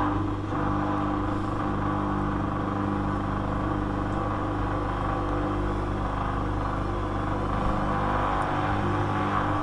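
Hoover washing machine motor turning the drum on its first intermediate spin, with a steady hum and several constant tones. The machine is in a suds lock: excess suds hold the spin back.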